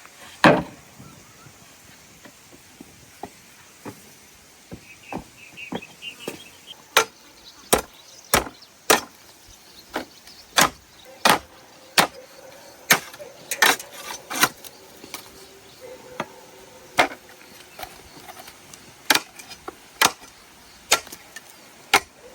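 Sugarcane being chopped with a blade in repeated sharp strokes. A loud cut comes about half a second in, then after a few scattered strokes the chopping settles into a steady pace of one or two strokes a second.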